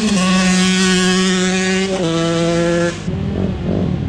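Two-stroke dirt bike engine held at high revs with a steady high buzz, stepping down slightly in pitch about two seconds in. About three seconds in it cuts away to a rougher, lower rumble.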